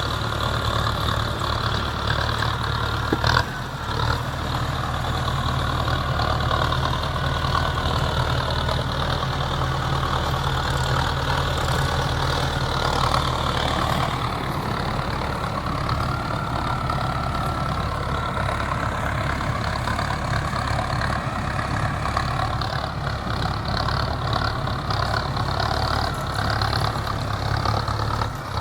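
Heavy diesel engine running steadily at work during soil loading, with a single sharp knock about three seconds in and a slowly rising and falling tone in the middle.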